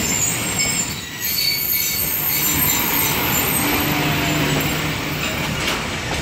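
Passenger train coaches rolling past close by: a steady rumble of steel wheels on the rails.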